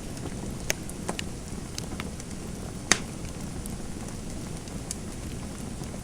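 Wood fire crackling in a fireplace: a steady low rustle with scattered sharp pops, the loudest a little under three seconds in.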